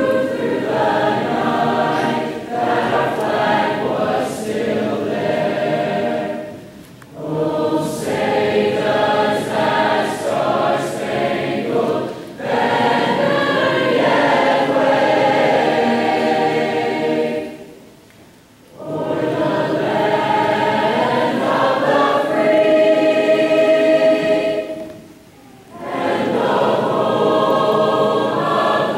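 A choir singing, in long phrases broken by brief pauses about 7, 18 and 25 seconds in.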